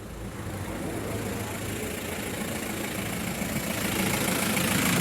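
Volkswagen Touran's engine idling steadily, the sound growing gradually louder.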